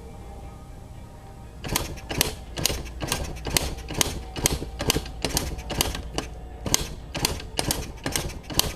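A steady run of sharp knocks, about two a second, starting a little under two seconds in and lasting about seven seconds, over faint background music.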